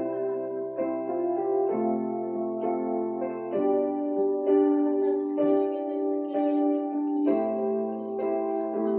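Slow piano music: held chords that change about once a second.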